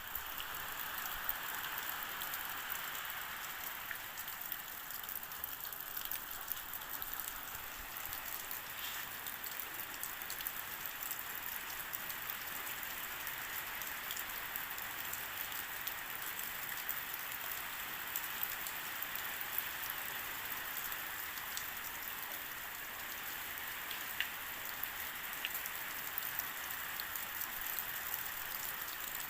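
Steady rain falling, an even hiss with many fine drop ticks and the odd sharper drip.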